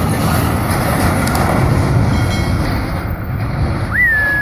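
Heavy vehicle rumbling with wind on the microphone. Near the end, a single high whistle-like tone rises quickly and then holds steady for about a second.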